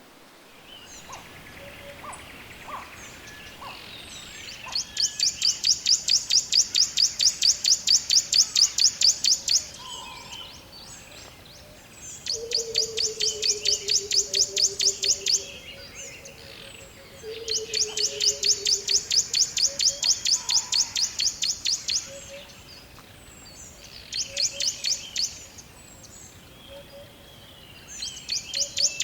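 A songbird's rapid, high trill of evenly spaced notes, about ten a second, given in bouts of a few seconds with short pauses between. Twice a lower, falling series of notes runs beneath it, over a faint background hiss.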